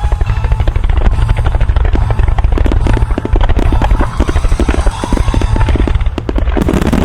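Starmine finale: aerial firework shells bursting in a rapid, unbroken barrage, the booms running together into a heavy rumble with sharp cracks on top.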